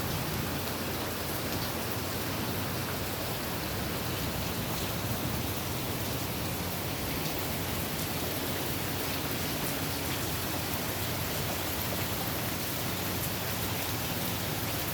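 Heavy rain falling and pattering on surfaces: a steady, even hiss with scattered drop ticks.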